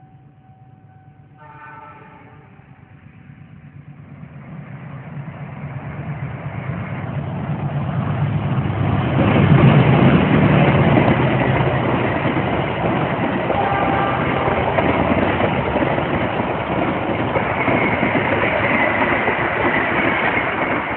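A train horn sounds briefly about two seconds in. Then the Argo Bromo Anggrek express train approaches and passes close by: the rumble of the train on the rails builds, is loudest about ten seconds in, and stays loud as the long rake of carriages rolls past.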